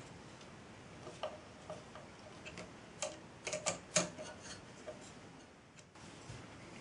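3D printer at work, its head making short, irregular moves: a scatter of sharp clicks and brief buzzes, bunched about a second in and again around three to four seconds in.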